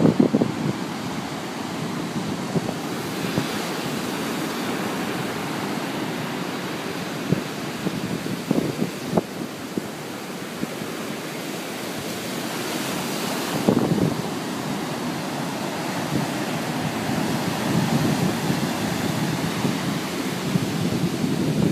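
Storm-driven surf on Lake Michigan breaking steadily, with strong wind blowing across the microphone and a few short low thumps from gusts.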